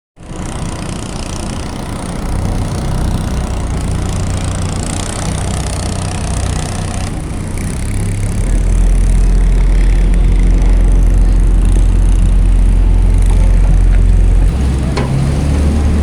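Boat engine running with a steady low drone. It gets louder and deeper about eight seconds in, then eases back near the end.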